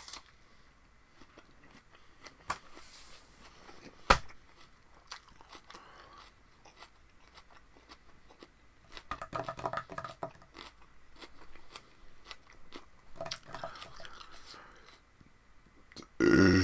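A person chewing and crunching raw vegetables close to the microphone, with wet mouth clicks, one sharp crunch about four seconds in, and a louder short mouth sound at the very end.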